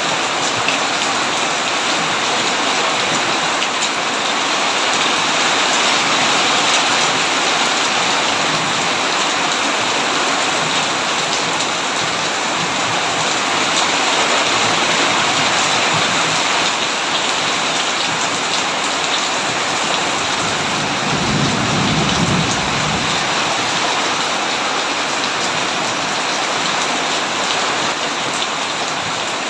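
Heavy rain falling steadily, with a brief low rumble of thunder about three-quarters of the way through.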